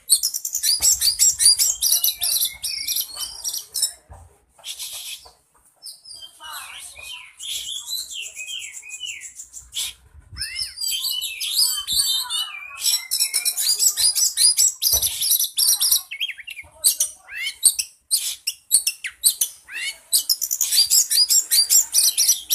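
A songbird singing a rapid, varied song of high chirps, whistles and trills, in long bursts broken by a few short pauses.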